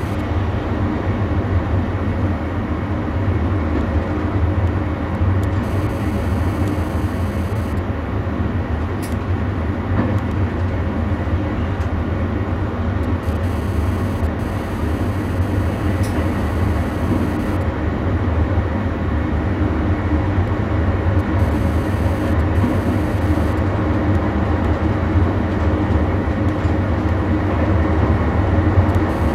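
Passenger train running steadily along the line, a constant low rumble from the running gear and traction heard from the driver's cab.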